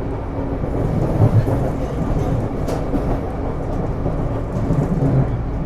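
Taipei Metro C301 train car running, heard from inside the car: a steady rumble of wheels on rail with a low hum. There is a sharp click about three seconds in.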